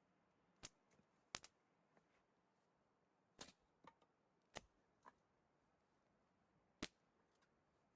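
Near silence broken by about seven short, sharp clicks or cracks at irregular intervals, a few of them in quick pairs.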